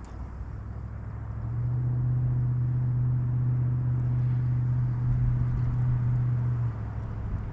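A steady motor hum at one constant pitch, fading in about a second and a half in and stopping shortly before the end.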